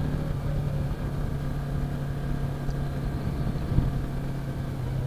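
Yamaha R3's 321 cc parallel-twin engine running steadily at light throttle while cruising at about 40 km/h.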